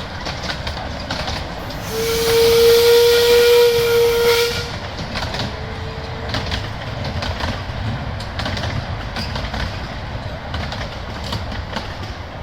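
Steam locomotive's whistle on a miniature railway, blowing one long steady note with a rush of steam hiss about two seconds in, then a fainter, shorter note. The train's running rumble continues underneath.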